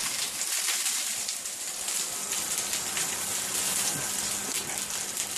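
Whole shallots sizzling in hot oil in a frying pan: a steady hiss full of fine crackles as they start to brown.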